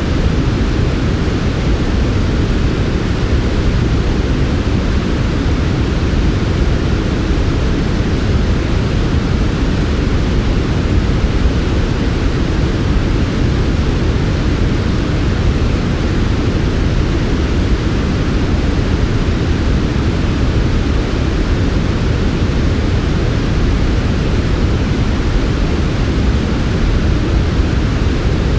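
Steady, unchanging synthetic sleep-aid noise, softened 'white noise' with most of its weight low down, so it sounds like a soft, deep rush rather than a bright hiss.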